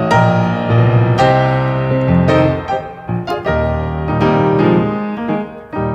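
Solo piano playing the hymn's introduction: struck chords and melody notes that ring on, before the vocal enters.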